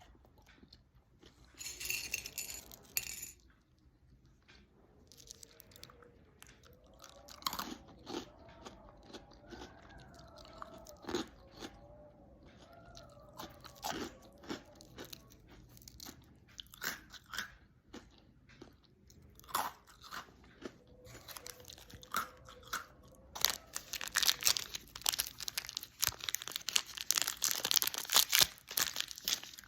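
Noisy chewing of crunchy food: a run of sharp crunches between the teeth, scattered at first and turning dense and loud near the end.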